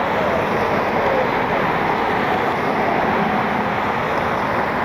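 Jet airliner engines running steadily: a continuous rushing noise with a faint whine that drifts slightly in pitch.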